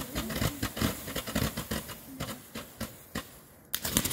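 Fireworks crackling with rapid, dense pops from burning fountains and rockets, thinning out over about three seconds, then a fresh burst of crackling starts suddenly near the end.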